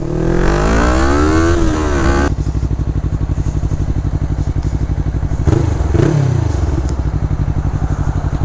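Sport motorcycle engine revving, its pitch rising and then easing off. About two seconds in it changes abruptly to a steady, low, pulsing run, with a short dip and rise in pitch a few seconds later.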